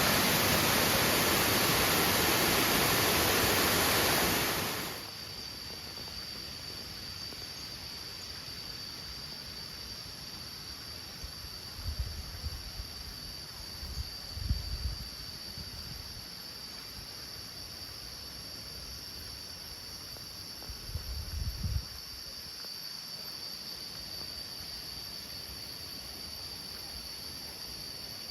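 A waterfall rushing loudly, cut off suddenly about five seconds in. A steady high-pitched insect drone follows, with three brief low thumps.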